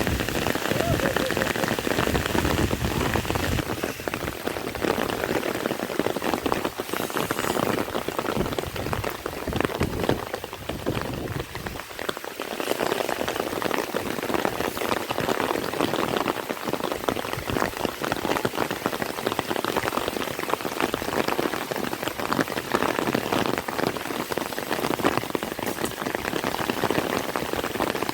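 Heavy rain falling steadily, a dense rush of countless drop impacts, easing slightly for a moment about twelve seconds in.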